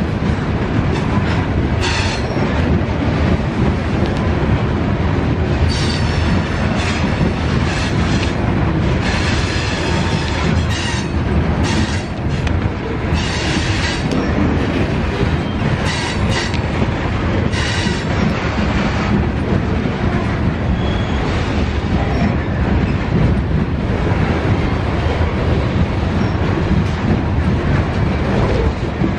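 Freight train cars rolling past, wheels clattering over the rails, with repeated short bursts of high wheel squeal through the first half or more.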